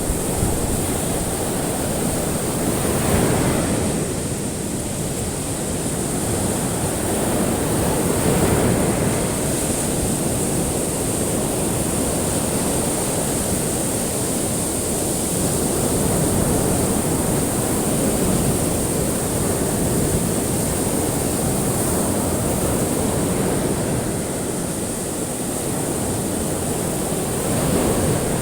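Ocean waves surging and washing on a shore in a continuous rush, swelling louder now and then, with a faint steady high hiss above it.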